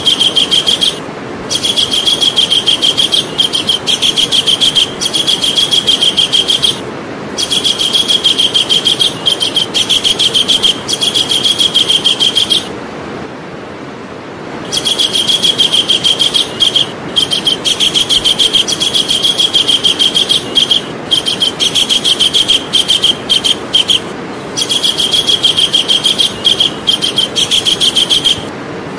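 Javan kingfisher calling: long bouts of rapid, sharp notes repeated many times a second, broken by short pauses and by one longer pause about halfway through, over a steady background hiss.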